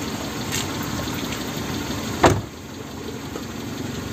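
Vehicle engine running steadily, a low rumble with road noise. A sharp click about two seconds in is the loudest moment, after which the sound is slightly quieter.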